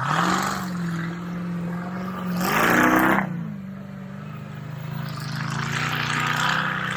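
Tut Truck's 500-horsepower engine running under load and revving, its pitch climbing at the start and again about two and a half seconds in, with a loud rush of noise peaking around three seconds before it eases back to a steady run.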